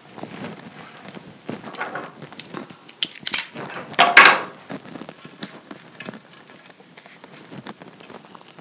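Handling noises from hands working plant material and a container on a work table: scattered small clicks, taps and rustles, with two louder rustles about three and four seconds in.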